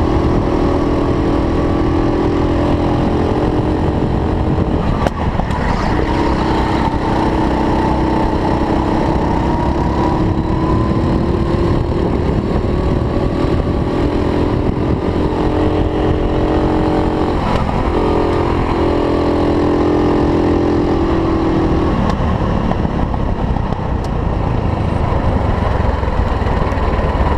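Racing kart engine running hard, its note dropping and climbing again several times as the kart brakes and accelerates, over a steady rumble and wind noise. The clear engine note fades out about 22 seconds in.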